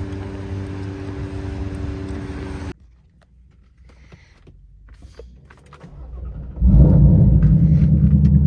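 Twin-turbo 2020 Shelby GT500's 5.2-litre V8 idling, then stopping abruptly about a third of the way in. After a few seconds of quiet with faint clicks, it starts right up near the end and settles into a loud, steady idle.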